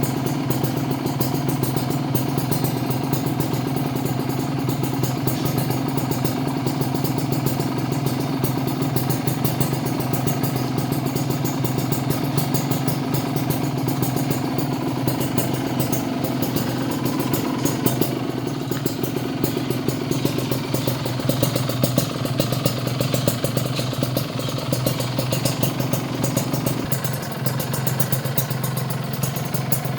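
Kawasaki Ninja RR's 150 cc two-stroke single-cylinder engine idling steadily through an aftermarket Eighty Racing exhaust, with a slight change in tone near the end. The engine is not yet warmed up.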